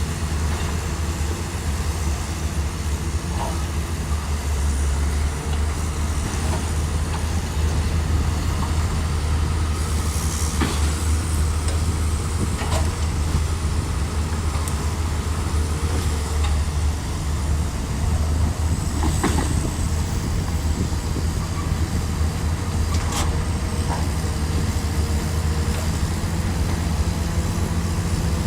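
Bulldozer's diesel engine running steadily at working speed with a deep, constant drone, and a few sharp knocks from the machine as it works.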